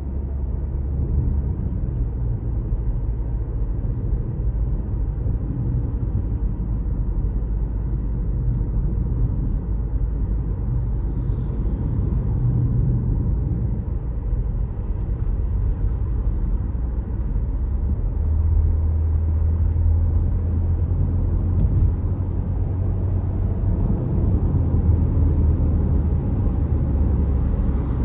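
A car being driven along a road: a steady low rumble of engine and tyres. A deeper hum grows stronger about two-thirds of the way through.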